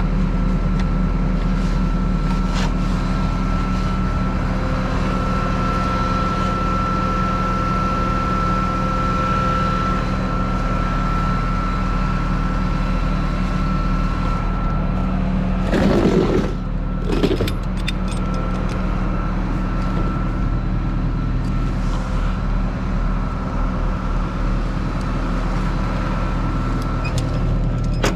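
Tow truck driving, its engine and road noise making a steady drone with a constant whine over it. A brief louder rush of noise comes about sixteen seconds in, with a second, shorter one just after.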